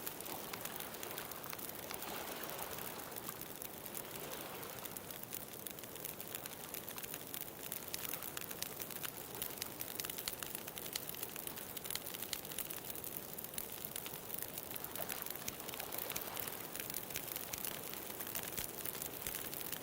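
Wood bonfire crackling with many small, rapid pops, over the hiss of ocean surf that swells twice as waves wash in.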